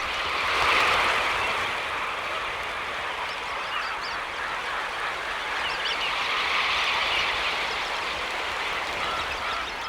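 Dense chorus of a huge flock of shorebirds, many overlapping calls merging into a continuous din.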